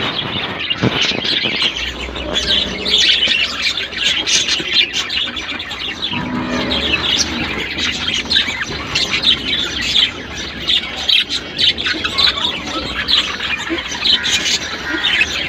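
Budgerigars chirping and squawking, with many short calls overlapping in a continuous chatter.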